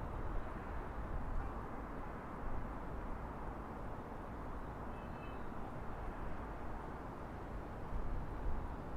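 Outdoor city ambience: a steady rumble of distant traffic with a faint short high tone about halfway through.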